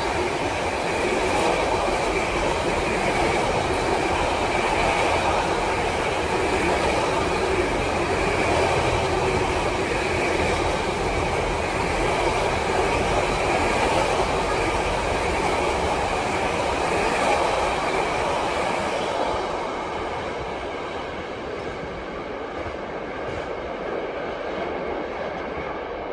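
Container freight train rolling past, a steady rumble of wheels on rail with a high, steady ring running through it. The noise drops away about two-thirds of the way through as the last wagons pass.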